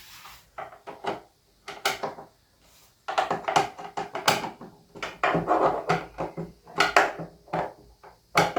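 Clicks, knocks and clatter of a plastic keyboard casing being handled and screwed back together: a few scattered knocks at first, then a busier run of rattling and knocking from about three seconds in.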